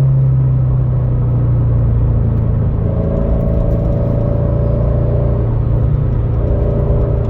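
Turbocharged Scion FR-S flat-four boxer engine running through a Remark quad-tip aftermarket exhaust while driving, a steady rumble that eases slightly in pitch near the start and then holds even.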